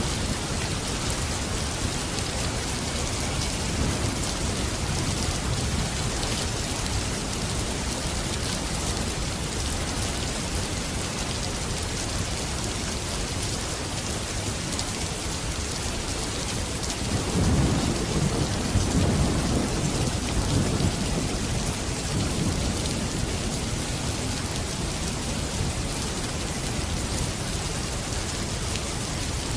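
Steady rain falling, with a low rumble of thunder swelling a little past halfway through.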